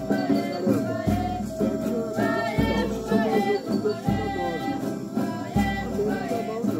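Group singing over instrumental music, with a low note that changes about every one and a half seconds and a faint shaker-like rattle.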